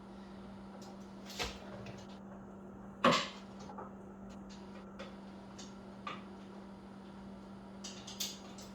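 Scattered light metal clicks and clinks, with one louder clink about three seconds in, as a 17 mm wrench works the top shock nut and its lock and flat washers off, over a steady low hum.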